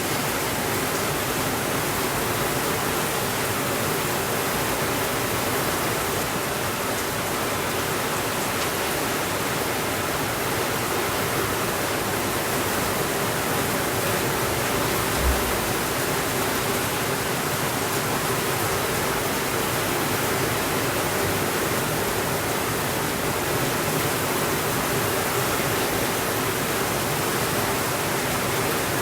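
Steady rainfall as an even, unbroken hiss, with a single brief low thump about halfway through.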